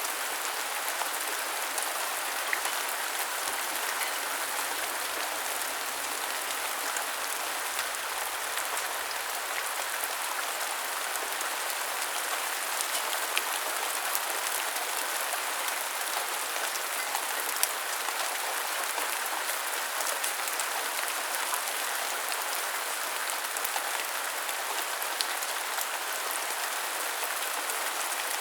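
Steady rain falling and pattering on surfaces, an even hiss with scattered sharper drop ticks.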